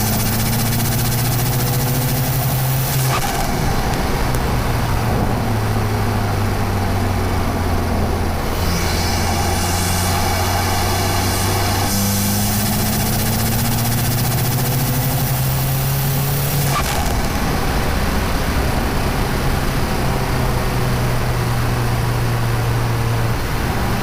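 Audi TTS's tuned 2.0-litre turbocharged four-cylinder engine under way, pulling through the gears with a rising turbo whistle. There is a sharp burst of turbo flutter or dump-valve release about three seconds in, and again about two-thirds of the way through, where the engine note drops.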